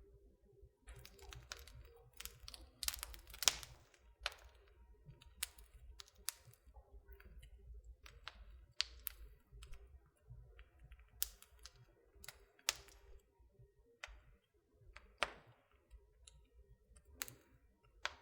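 Wood fire in a fireplace crackling: irregular snaps and pops, a few sharper than the rest, over a faint low rumble of the flames.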